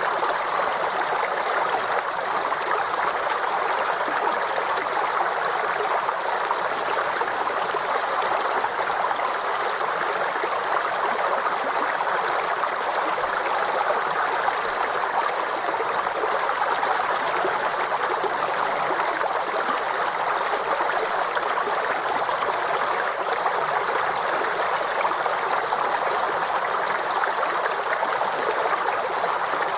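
Forest stream running over stones, a steady rushing and gurgling that stays even throughout.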